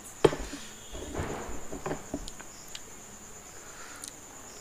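A sharp click just after the start, then a person chewing a raw green chilli, with muffled mouth sounds and a few small clicks.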